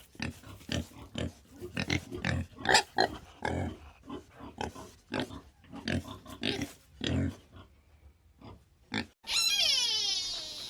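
An animal grunting over and over in short bursts. About nine seconds in, a cut to a different animal giving a long call that falls in pitch.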